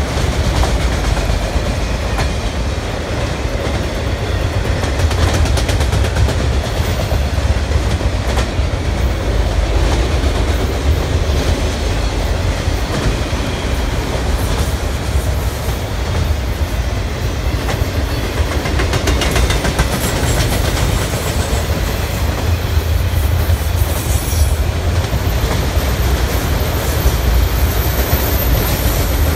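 Freight train of autorack cars rolling past: a steady, heavy rumble with the wheels clacking over the rail joints.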